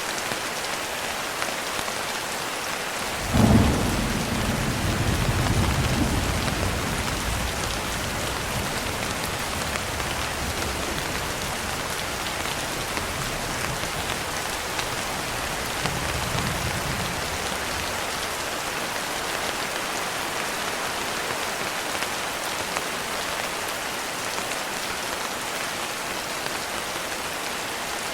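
Steady rain with a sudden clap of thunder about three seconds in that rolls on for a few seconds, and a fainter roll of thunder past the halfway mark.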